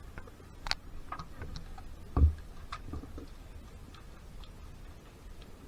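Sporadic sharp ticks of airsoft fire, irregularly spaced, with one louder, deeper thump about two seconds in.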